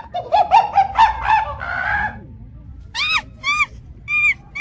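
Animal calls: a fast run of short, high-pitched calls, each rising and falling, for about two seconds, then three separate louder calls about half a second to a second apart near the end.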